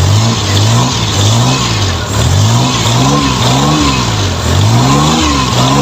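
Suzuki F6A three-cylinder engine running and being revved in quick blips, its pitch rising and falling over and over, roughly once or twice a second. It is a test run after a new distributor cap and high-tension leads were fitted to cure hard starting.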